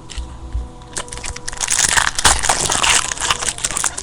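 Wrapper of a baseball card pack crinkling and crackling as it is handled and opened, building from about a second and a half in and loudest near the middle.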